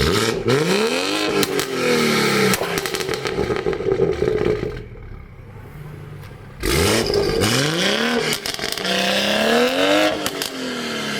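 Car engine accelerating hard in two spells, its pitch climbing and falling back as the revs rise and drop. There is a quieter lull of about two seconds midway.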